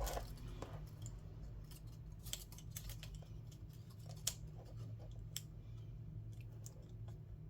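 Scattered light clicks and taps of small hand tools and parts being handled during a tablet screen repair, irregularly spaced with one sharper click about four seconds in, over a steady low hum.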